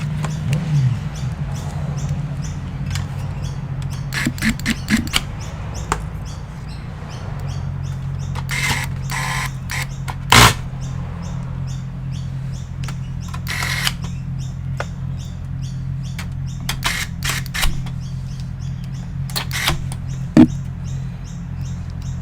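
Scattered clicks, taps and short rustles of computer parts being handled, over a steady low hum. Two sharp clicks stand out, one about halfway through and one near the end.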